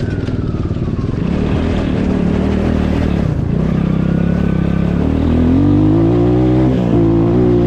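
A road vehicle's engine running under way, then revving up: its pitch climbs about five seconds in and holds high, with a faint high whine gliding down near the start.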